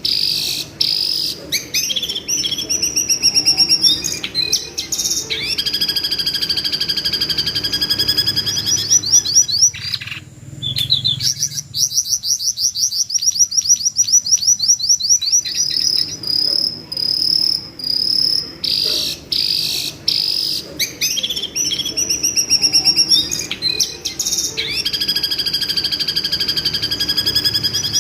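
Jongkangan bird calling with shrill, screaming trills: long runs of fast, high repeated notes that come in phrases with short breaks between them.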